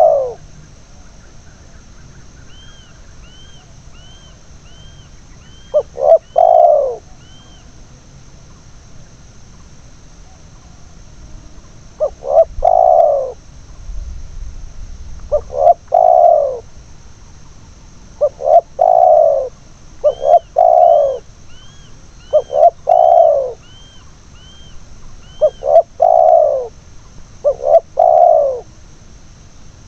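Spotted doves (tekukur) cooing: phrases of a few short notes ending in a longer falling coo, repeated every few seconds, sometimes in quick succession. Faint runs of small high chirps from another bird come in twice, with a steady faint high-pitched hum behind.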